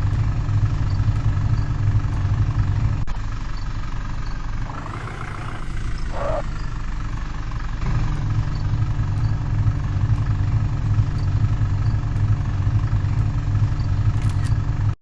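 Tractor diesel engine running steadily with a low, even hum. The low note drops away for a few seconds from about three seconds in, with a brief higher sound around the middle, then comes back.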